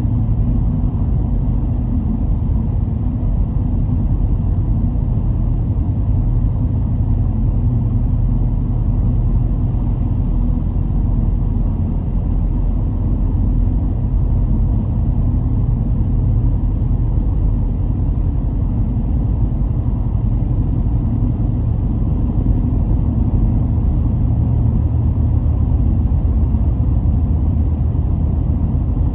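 Car driving at a steady pace: an even, low rumble of engine and road noise.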